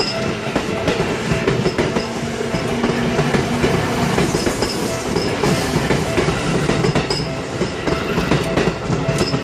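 Seibu Railway electric train passing close by, its wheels clattering over the rail joints in a dense run of clicks. The sound cuts off abruptly near the end.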